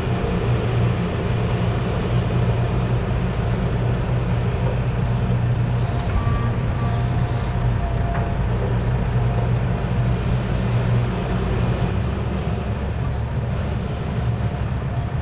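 Heavy diesel engine of a Volvo A25G articulated haul truck running steadily under way, a deep, even drone. Its low note shifts about three-quarters of the way through.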